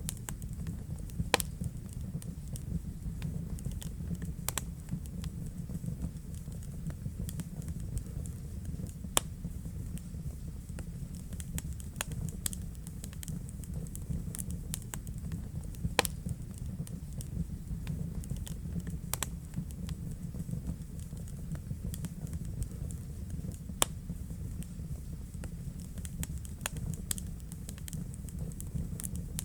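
Wood fire burning in a fireplace: a steady low rumble of the flames with sharp, irregular crackles and pops from the burning logs, a few of them louder.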